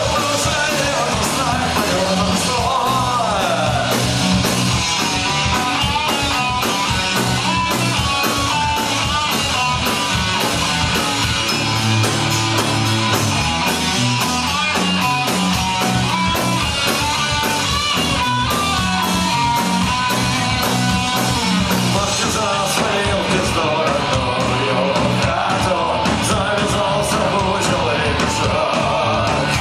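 Live punk rock played loud by a full band: electric guitars, bass and driving drums with busy cymbals, and a sung vocal over the top.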